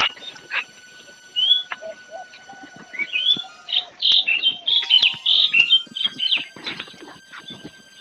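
Small birds chirping and calling in short, quick, rising notes, busiest from about three to seven seconds in.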